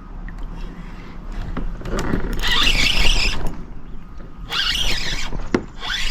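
Fishing reel being cranked in short spurts: three bursts of whirring, each under about a second long, with pauses between, as a lure is retrieved in twitches.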